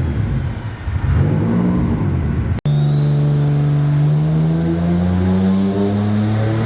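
Big-turbo Subaru EG33 flat-six in an STI revving unevenly. After an abrupt break, it pulls steadily under load as on a dyno, its note climbing slowly with a high whine rising alongside.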